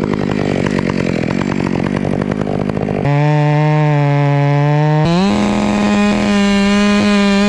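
Two-stroke chainsaw cutting through fir wood under load. About three seconds in the chain comes free of the cut and the engine runs on with a clear steady pitch, which steps higher about two seconds later as it revs up.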